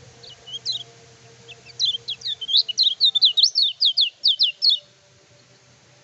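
Kecial kuning, a small yellow white-eye, singing actively: a few short high chirps, then a fast, loud run of quick downward-slurred notes, about five a second, that stops abruptly about five seconds in.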